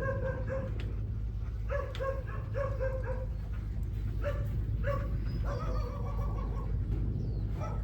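Dog barking in short repeated barks, in several bunches, over a steady low hum.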